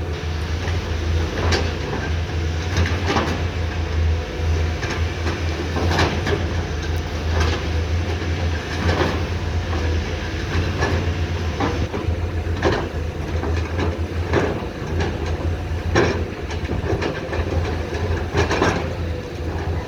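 Komatsu PC210 excavator's diesel engine running steadily under load, with repeated metal clanks and scrapes every second or two as the bucket works the ground.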